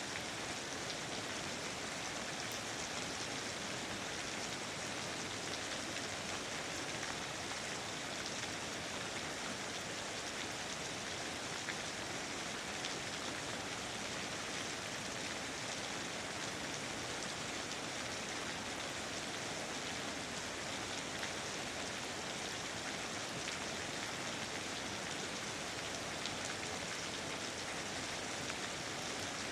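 Steady rain falling in a rainforest, an even hiss with scattered faint drop ticks.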